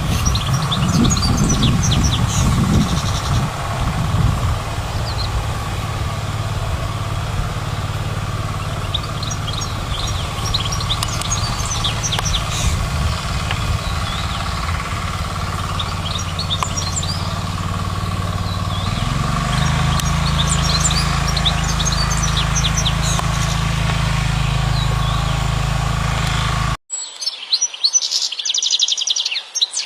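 European goldfinch singing in short bursts of twittering chirps and trills over a steady low hum. Near the end the recording cuts to a louder, denser run of goldfinch song without the hum.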